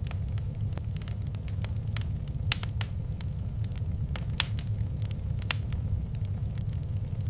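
Wood fire in a fireplace crackling, with scattered sharp pops, three of them louder about two and a half, four and a half and five and a half seconds in, over a steady low rumble.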